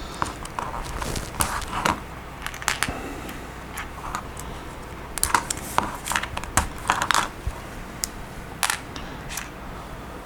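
Plastic Lego Technic pieces clicking and clattering as they are taken apart and sorted by hand: irregular sharp clicks, busiest from about five to seven seconds in.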